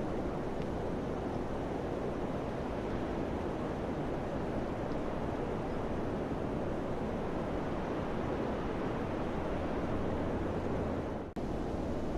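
Steady summer wind blowing, a dense even rushing with a low rumble beneath it. It cuts out for a split second about eleven seconds in.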